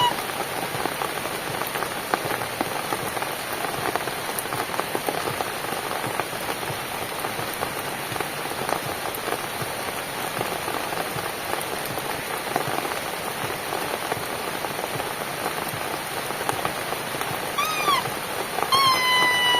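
Steady, dense rain falling on a cabin, with many individual drops ticking through the patter. Near the end come two short pitched calls, the first rising then falling, the second falling.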